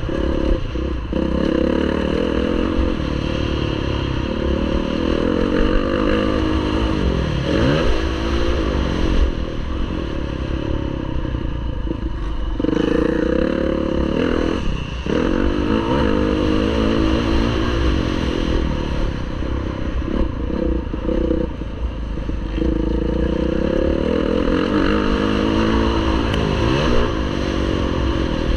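Motocross bike engine at race pace, its revs climbing and falling over and over as the rider works the throttle and gears. The engine drops off sharply for a moment several times, over a constant low rumble.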